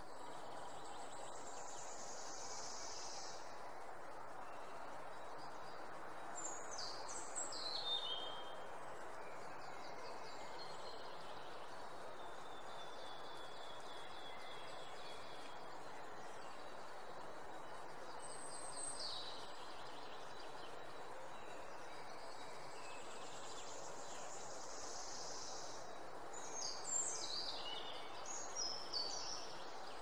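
Steady outdoor ambience hiss. Over it, a songbird gives a quick run of high, falling notes twice, about six seconds in and again near the end.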